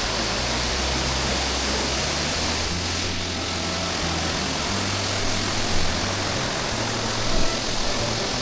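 Steady rush of falling water, with low background music notes stepping under it.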